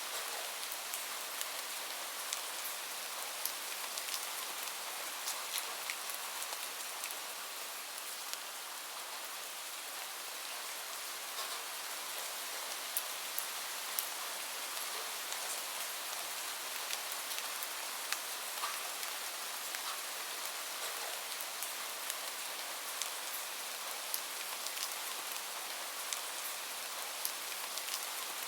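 Steady rain falling, an even hiss, with small sharp crackles and ticks scattered throughout.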